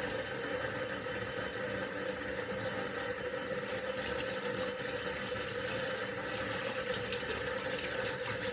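Kitchen tap running steadily as the egg mixer is rinsed clean under it.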